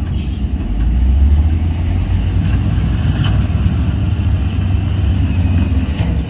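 Heavy diesel engine of earthmoving machinery running steadily with a deep low rumble.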